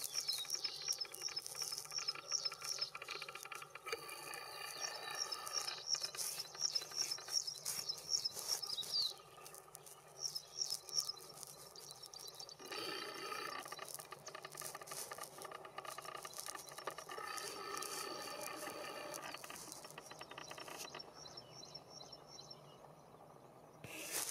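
Graceful prinia singing: long runs of short, repeated high notes, about three a second, that stop and start again several times. Other birds call more softly underneath.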